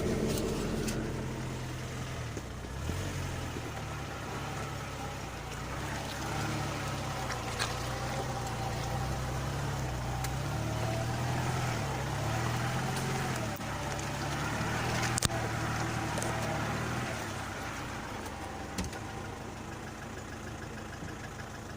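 Lada Niva's engine running under load as it drives off-road, its pitch rising and falling with the throttle. A few sharp knocks sound over it, the loudest about two-thirds of the way through.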